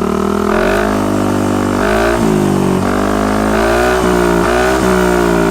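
Yamaha Lexi scooter's single-cylinder engine revved hard through an R9 Misano full-system exhaust with no dB killer, the revs climbing and dropping back several times under sharp throttle blips. The note stays bassy and does not crack.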